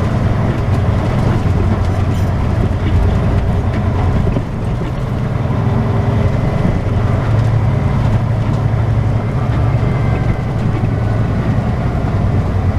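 Semi truck's diesel engine running, with road noise heard from inside the cab as the truck drives: a steady low rumble that dips briefly about four and a half seconds in.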